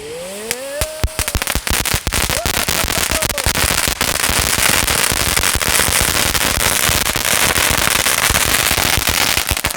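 An 'Angry Birds' novelty firecracker going off: a brief rising whistle near the start, then a long run of loud hissing dense with rapid crackling pops as the cracker tears itself apart.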